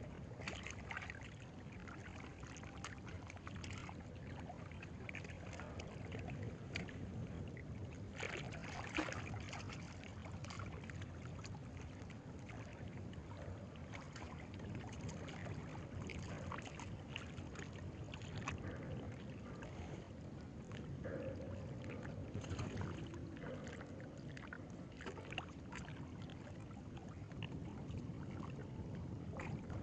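Water lapping steadily at the shore, with scattered faint clicks.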